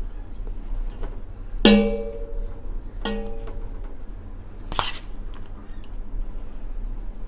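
Metal utensil striking a metal cooking pot twice, each knock ringing briefly, followed by a shorter clack about five seconds in.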